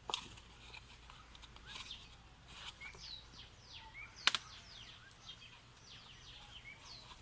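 Birds chirping, a run of short falling calls repeated throughout, with one sharp click about four seconds in.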